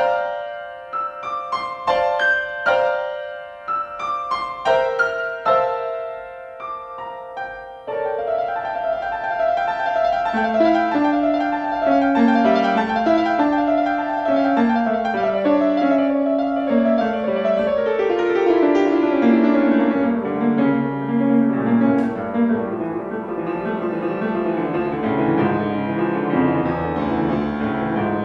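Solo piano playing a classical piece. For about the first eight seconds it plays separate repeated chords that ring and die away, then it moves into continuous flowing playing over a bass line that steps downward.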